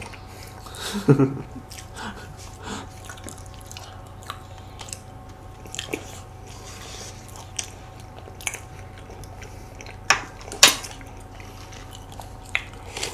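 Close-up eating sounds: soft chewing and mouth noises of cake being eaten, with scattered light clicks. Two sharp clicks about ten seconds in are the loudest sounds.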